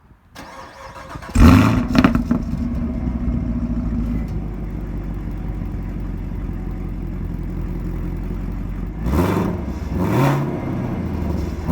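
2018 Chevrolet Camaro SS 1LE's 6.2-litre LT1 V8 being cranked and firing up about a second in, flaring and then settling into a steady idle, then revved briefly twice near the end. The dual-mode exhaust is in touring (stealth) mode with its valves closed.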